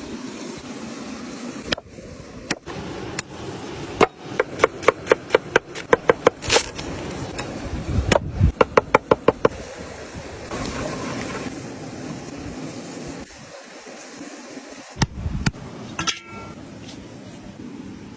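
Two quick runs of sharp, slightly ringing knocks, about three to five a second, with a few single knocks before and after, over a steady hiss.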